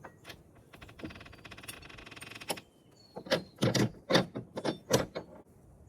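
A fast run of clicking for about a second and a half, then several sharp knocks, from hands and tools working a piece of hardware loose and setting it in a new spot.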